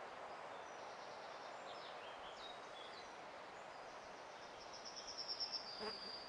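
A small bird singing in the background: a few short high chirps, then a fast, evenly pulsed high trill about five seconds in that ends on a brief held note, over a steady hiss.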